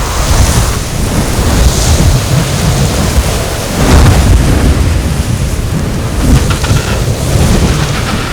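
Katabatic blizzard wind blowing hard, a loud rumbling rush that rises and falls in gusts, strongest about four seconds in.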